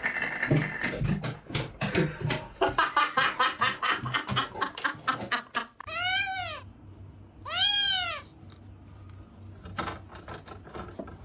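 A cat meowing twice, about a second and a half apart, each meow rising then falling in pitch. Before the meows comes a long run of fast, pulsing vocal sounds.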